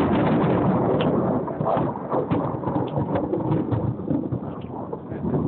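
Thunder rumbling for several seconds, easing off near the end, with rain falling.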